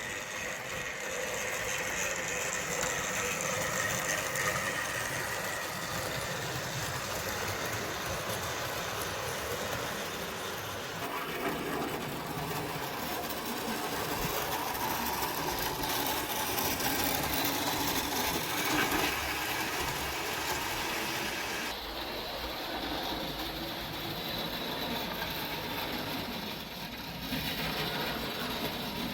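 Model railway trains running on track: a small electric motor's whine with the clatter of wheels over the rails. The sound changes abruptly a few times, as separate clips follow one another.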